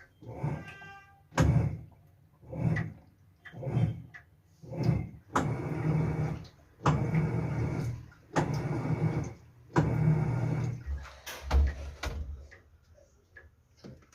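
Dishes being washed by hand: a brief squeak, then a run of rubbing scrubbing strokes, at first short and about a second apart, then four longer ones. A few low knocks follow near the end.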